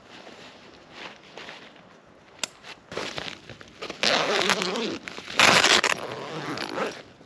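Rustling and crinkling of material being handled, in several noisy bursts after a quiet start, the loudest about five and a half seconds in.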